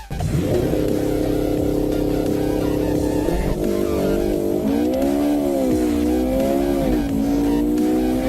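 High-performance car engine at full-throttle acceleration: it holds a steady note for about three seconds, then its pitch climbs and drops back again and again as it shifts through the gears.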